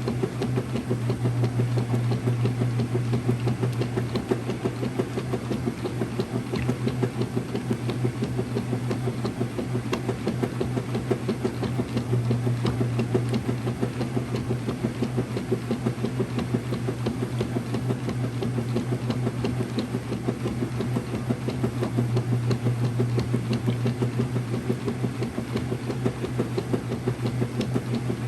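Early-2000s Whirlpool direct drive washing machine running, a steady motor hum with a fast, even mechanical pulse and light rattle.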